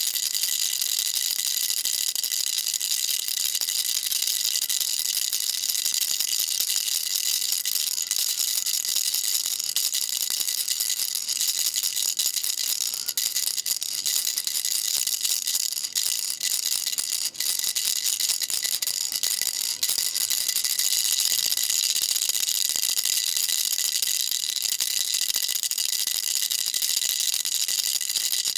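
Baby rattle shaken continuously: a dense, steady, high-pitched rattling, with a few brief dips about halfway through.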